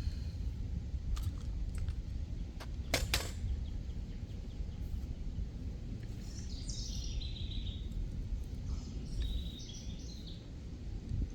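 A songbird calling twice in short series of stepped, falling notes over a steady low wind rumble, with two sharp clicks in quick succession about three seconds in.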